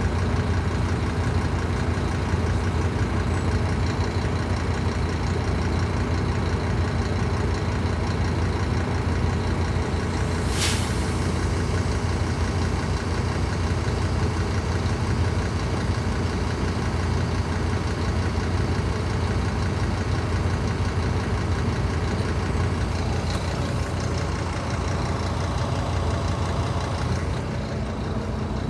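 Scania K310IB bus's diesel engine running steadily at an even speed, with a deep drone. A single short sharp click or hiss comes about ten seconds in, and the engine note drops slightly near the end.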